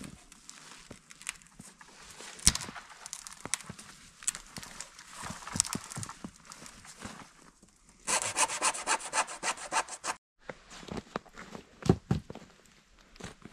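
Hand saw cutting dead branches, with scraping and knocking of wood and a couple of sharp cracks as branches snap. About two-thirds of the way in comes a quick run of fast saw strokes.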